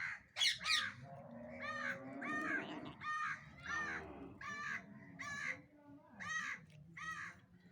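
A parrot giving a run of repeated short calls, about two a second. Two quick sweeping shrieks come just before the run.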